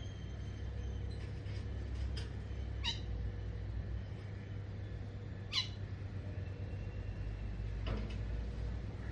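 A few short, sharp bird calls, each a quick sweep in pitch, over a steady low rumble.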